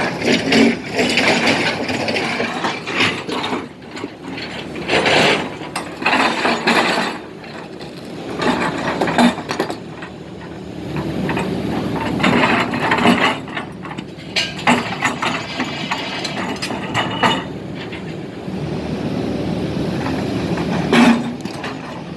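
Caterpillar 320D hydraulic excavator at work: mechanical clanking and rattling that swells and fades in bursts every few seconds.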